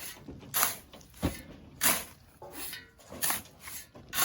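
Shovels scooping and tossing sand: a run of short scraping swishes, roughly one every two-thirds of a second, with a dull thump a little over a second in.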